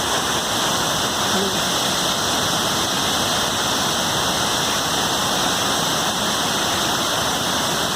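Waterfall pouring steadily: a constant hiss of falling water, with no change in level.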